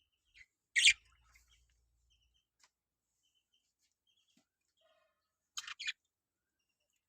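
Budgerigars calling: one loud short squawk about a second in, a few faint chirps after it, and two more short squawks close together near the end.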